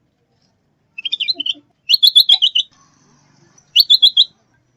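A songbird singing three short bursts of rapid, repeated high notes, the middle burst the longest, recorded for use as a bird-trapping lure and training call.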